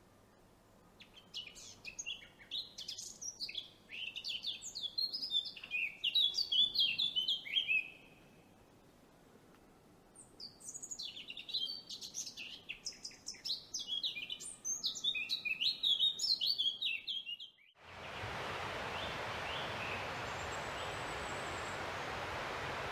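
Songbird singing in two long bouts of quick, varied chirping and twittering, each about seven seconds, with a short quiet pause between. Near the end the song cuts off abruptly and a steady rushing hiss takes over.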